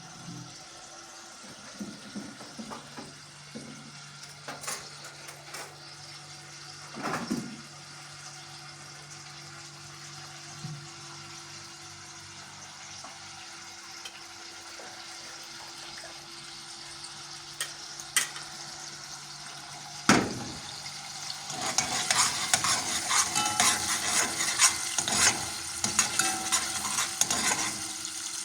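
Food frying in a pan, with scattered clinks and knocks of a utensil. About twenty seconds in a sharp knock comes, and then a loud crackling sizzle takes over.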